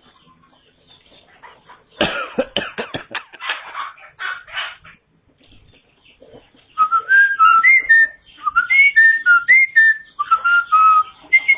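Hill myna calling: a loud, harsh, raspy burst about two seconds in, then from about seven seconds a run of short whistled notes, each a quick rising or falling glide.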